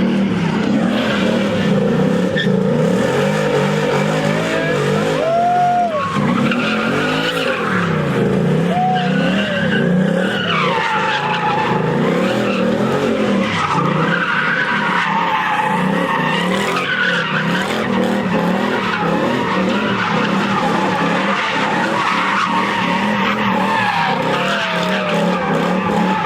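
A car spinning donuts: its engine is revved over and over, the pitch swinging up and down, while the tires squeal and screech without a break.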